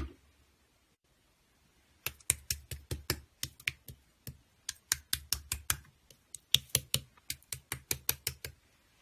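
Typing on a keyboard: irregular runs of sharp key clicks, several a second, starting about two seconds in and stopping shortly before the end.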